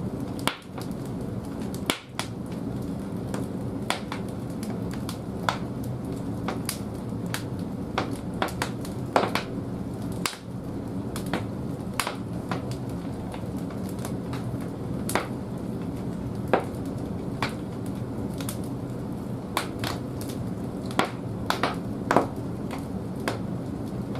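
Large firewood burning in the firebox of an old wood-fired bathhouse boiler: a steady low rumble of the fire, with irregular sharp crackles and pops from the burning wood, about one or two a second.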